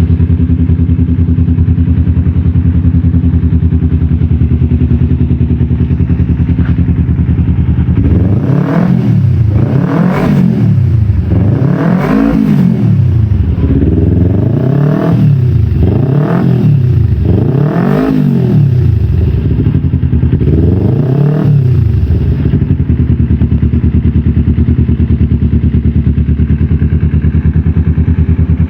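Kawasaki Ninja 250Fi parallel-twin engine through an aftermarket Norifumi X4 slip-on exhaust with a custom header, idling steadily. A third of the way in it is revved in about seven short throttle blips, each rising and falling back, and then settles back to idle for the last few seconds.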